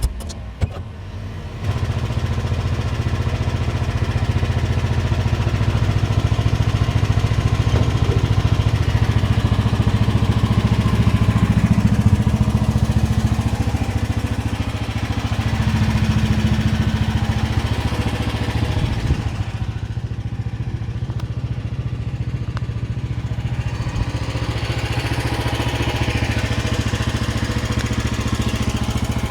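QH13R mini excavator's engine running steadily as the machine works, its note dipping and shifting several times under hydraulic load. It comes up loud about two seconds in.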